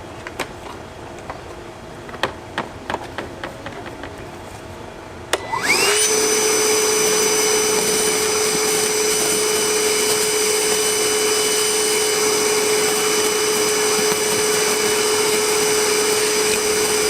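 A few light clicks, then the Milwaukee M18 cordless wet/dry vacuum is switched on about five seconds in. Its battery-powered motor spins up with a quick rising whine and then runs steadily with a high whine.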